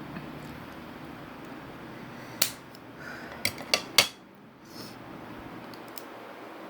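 Dishes and cutlery clinking and knocking at a meal: one sharp knock, then three more in quick succession about a second later, the last the loudest, over a steady background hiss.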